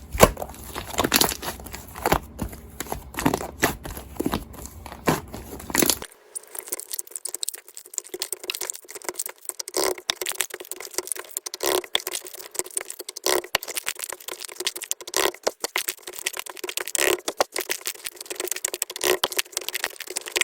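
A dense run of crinkling and clicking handling sounds, sharp and irregular. About six seconds in, the sound abruptly loses its low end and turns thinner.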